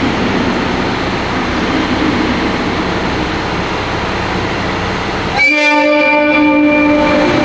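KiHa 183 series diesel train rumbling steadily, then sounding its horn about five seconds in: one held, multi-tone blast of about two seconds.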